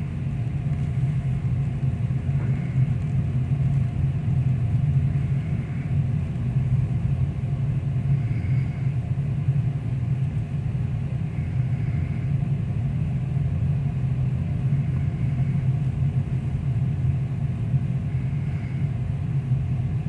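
Steady low rumble of a large ship's machinery underway in a storm, with a faint short high beep about every three seconds.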